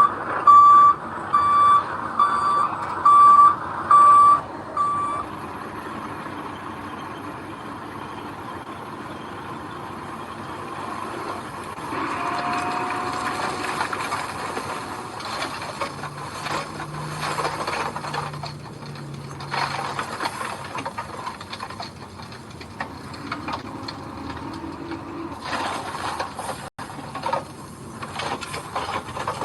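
Backup alarm on heavy earthmoving equipment beeping about one and a half times a second while the machine reverses, stopping about five seconds in. After that, heavy machinery keeps running with intermittent rattling and clanking.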